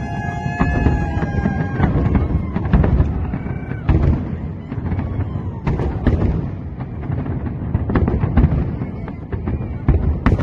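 Fireworks going off: a dense run of booms and sharp cracks, with a steady high whistling tone for the first two seconds and a few short whistles after.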